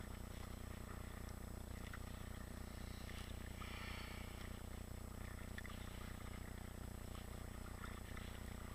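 Kayak paddles dipping and pulling through the water, with one brief splash about three and a half seconds in and small drips and knocks, over a steady low hum.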